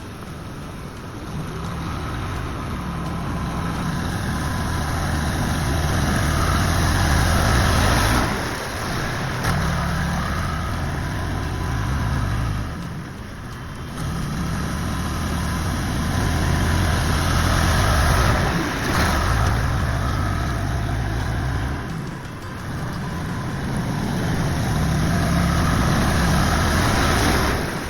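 Tractor engine working under load while spreading gravel, swelling and easing off every several seconds as it pushes and backs off.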